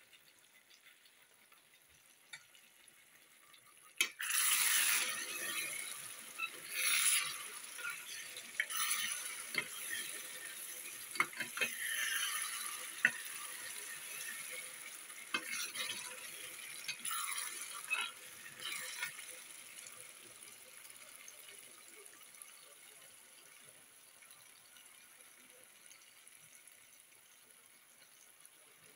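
A blended tomato and pepper mixture frying in oil in a stainless steel pan, stirred with a metal spoon. A sharp knock comes about four seconds in, then for about fifteen seconds surges of sizzling mix with the spoon scraping and clinking against the pan, before the sizzle fades.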